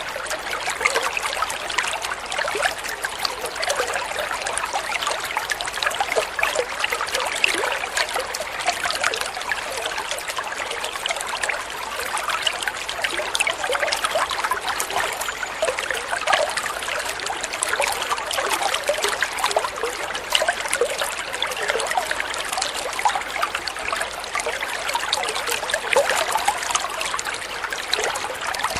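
Flowing water trickling and babbling steadily, full of small quick splashes, with little deep rumble.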